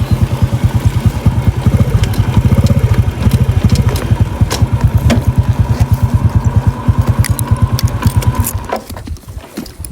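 Small engine putting steadily at low speed with an even, rapid beat, then stopping about nine seconds in.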